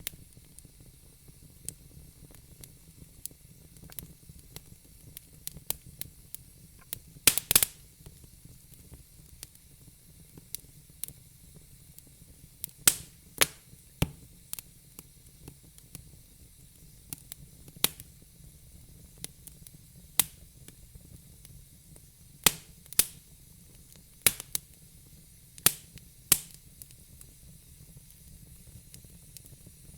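Burning logs in a fire pit crackling: irregular sharp pops and snaps over a faint hiss, with a cluster of loud pops about seven seconds in.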